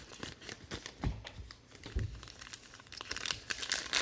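Crinkling foil trading-card pack wrappers and cards being handled, with scattered short crackles and two soft thumps about one and two seconds in.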